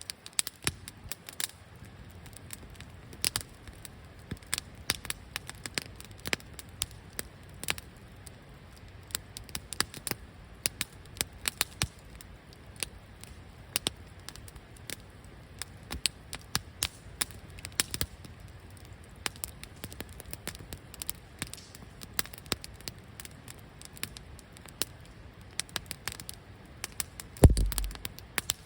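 Wood fire crackling, with a steady scatter of sharp pops and snaps. A brief low rumble comes near the end.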